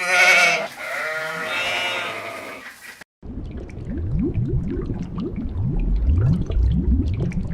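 Bleating: two long quavering calls, the first the louder. After an abrupt cut about three seconds in comes a different low sound of short rising sweeps repeated several times a second.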